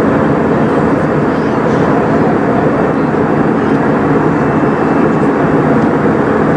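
Steady engine and airflow noise heard inside the cabin of an Airbus A320 airliner, a loud even rush with a faint low hum and no changes.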